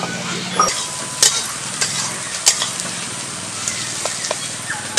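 Chicken frying in an iron kadai over a wood fire, sizzling steadily, with scattered sharp taps and clicks as it is stirred with a metal spatula.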